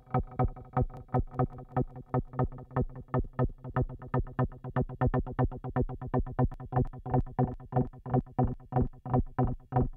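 Malekko Manther synthesizer playing a repeating sequenced bassline of short, evenly spaced notes, about five or six a second.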